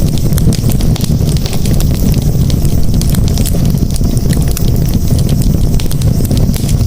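Wood campfire burning: a steady low rush of flames with frequent sharp crackles and pops.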